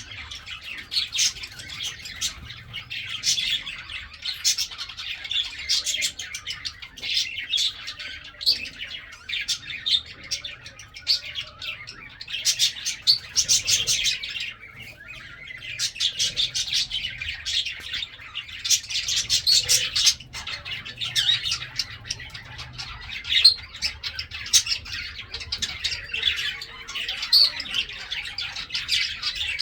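Pet lovebirds chattering without a break, a dense run of high chirps and squawks.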